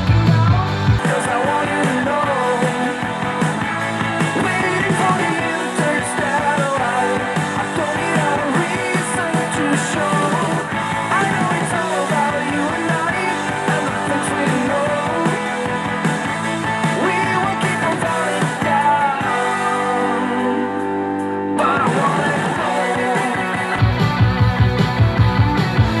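A song with singing and guitar playing through a portable Bluetooth speaker and recorded by a microphone in front of it. A little after 21 seconds in, the top end drops out briefly, and a heavier pulsing beat comes in near the end.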